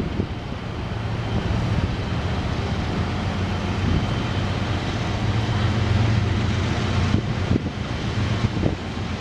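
Diesel locomotive engine running steadily with a constant low hum.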